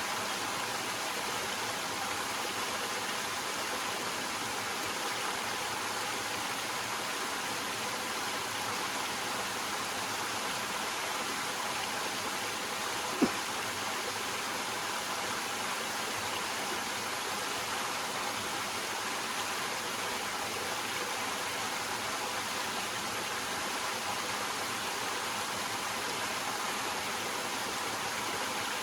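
Small waterfall: water flowing steadily over rocks, an even rushing hiss. A single short click sounds about halfway through.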